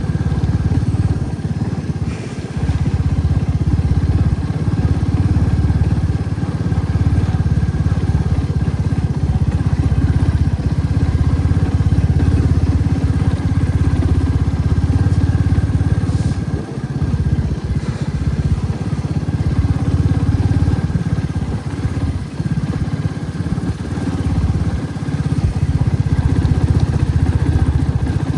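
Motorcycle engine running steadily while riding, with a few brief dips in level along the way.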